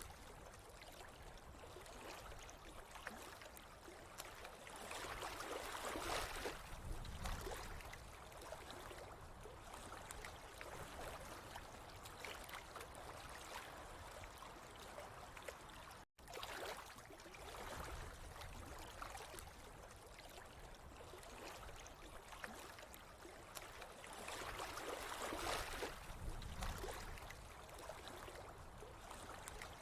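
Running water with a steady rushing, trickling sound, swelling louder twice, with a brief dropout to silence about halfway.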